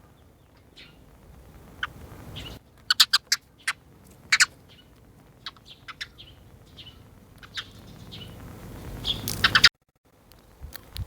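A sparrow chirping: short, sharp chirps, some in quick runs of three or four, with a louder flurry of chirps near the end before the sound briefly cuts out.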